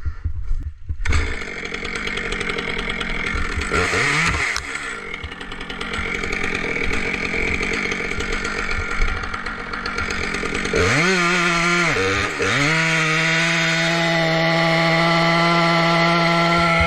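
Two-stroke chainsaw running, revved briefly about four seconds in. Just before eleven seconds in it is opened up to full throttle and held at a steady high pitch, with a short dip about a second later.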